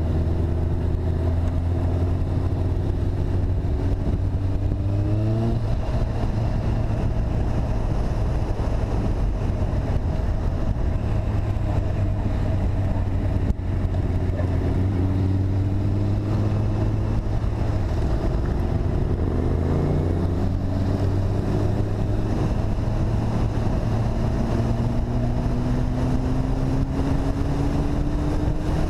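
Engine of the vehicle carrying the camera running under way. Its pitch climbs, then drops at a gear change about five seconds in and again around twenty seconds, then climbs slowly again. Wind and road rush run underneath.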